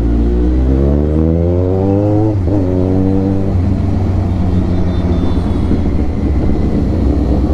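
Kawasaki Ninja 1000's inline-four engine through an Austin Racing full-system exhaust, loud. The revs rise for about two seconds, drop sharply at a gear change, pick up again and then hold steady.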